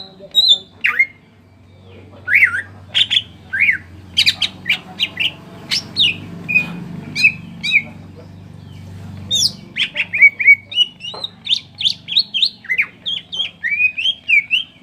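Green leafbird (cucak ijo) singing a fast string of loud, sharp chirps and quick up-and-down whistled notes, in the rapid 'tembakan' bursts prized in a trained songbird. The notes come thicker and faster after about ten seconds, and a faint low hum runs underneath through the first two-thirds.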